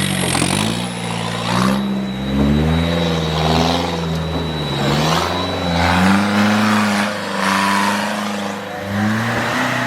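Off-road vehicle's engine revving up and down repeatedly under load, its pitch rising and falling.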